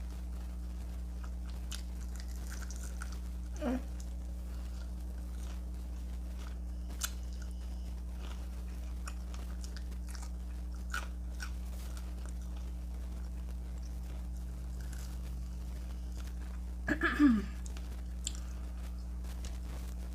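Close-up mouth sounds of eating crunchy Flamin' Hot Cheeto-crusted fried chicken wings: scattered soft crunches and chewing clicks over a steady low electrical hum. A short falling vocal sound comes just before four seconds in, and a louder one, the loudest thing here, near the end.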